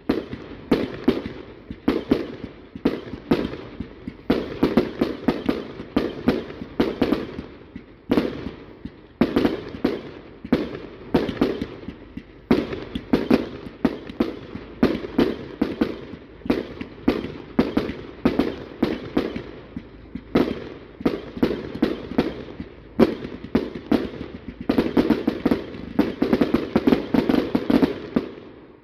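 Aerial fireworks bursting in quick succession: a dense, unbroken run of sharp bangs and crackles, several a second, busiest near the end.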